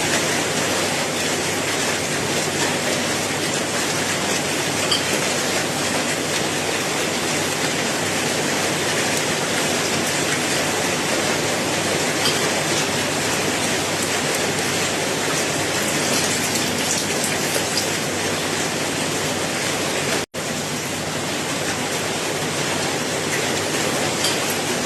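Steady, dense rain hiss with scattered individual drops, with no change in intensity. The sound cuts out for a split second about twenty seconds in.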